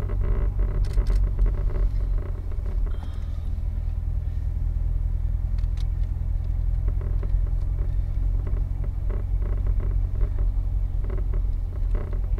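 Corvette Stingray's 6.2-litre LT1 V8 running just above idle in first gear as the car creeps downhill at walking pace, heard from inside the cabin: a steady low-pitched engine note, with a few faint clicks.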